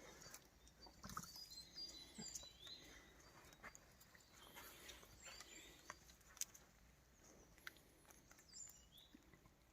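Faint birdsong: scattered short chirps and little gliding calls, with a few soft clicks and rustles.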